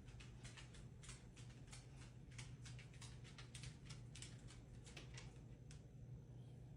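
Faint, irregular clicking, several clicks a second, over a steady low hum; the clicks stop near the end.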